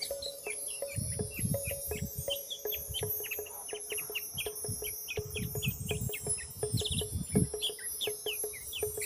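Small birds chirping rapidly, many short falling chirps overlapping, over a steady high insect hiss. Bursts of low rumble come and go, the loudest about a second in and again between about five and seven seconds.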